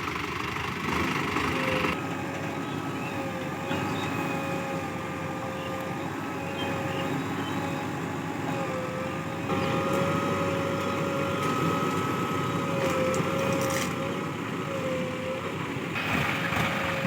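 Sonalika tractor's diesel engine running steadily, with a steady whine that wavers slightly in pitch over the engine beat.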